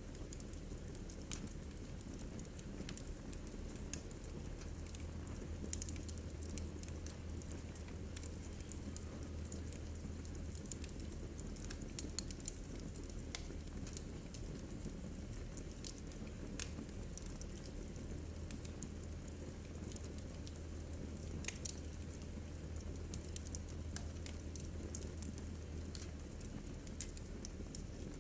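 Wood fire crackling in a fireplace: irregular sharp snaps and pops, a few louder ones, over a steady low rumble of the burning logs.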